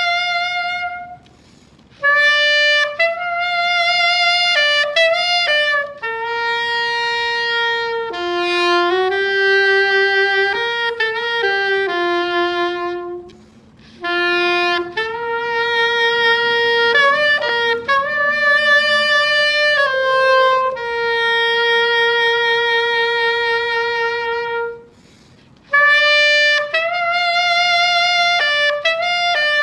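Solo saxophone playing a slow hymn melody in long held notes, with three short pauses between phrases.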